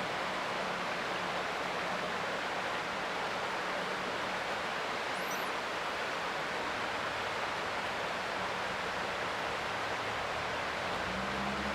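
Creek water running steadily, an even rushing noise. A faint low hum sits underneath, stronger near the end, and a single brief high chirp comes about five seconds in.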